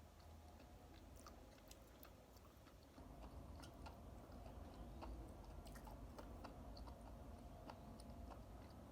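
Faint chewing of food close to the microphone, with scattered small mouth clicks.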